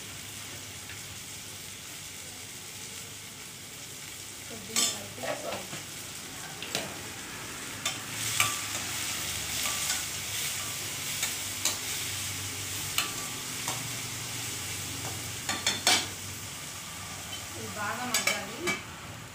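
Chopped tomatoes and onions sizzling in hot oil in a steel kadai, a steady frying hiss. A spoon scrapes and knocks against the steel pan several times as they are stirred.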